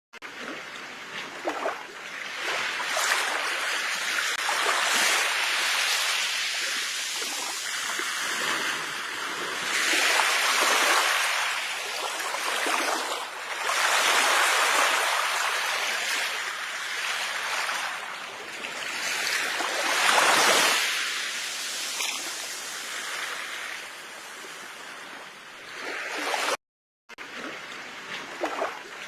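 Ocean waves washing onto a shore, the surf swelling and falling back every few seconds. The sound cuts out for a moment near the end.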